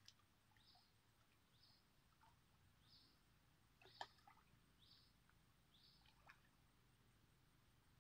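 Near silence, with a bird's faint short high chirp repeating about once a second and a few soft clicks, the clearest about four seconds in.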